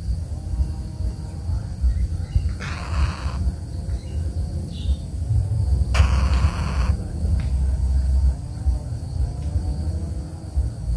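Steady insect buzzing, over a strong low rumble, with two short harsh noisy bursts, one about three seconds in and one about six seconds in.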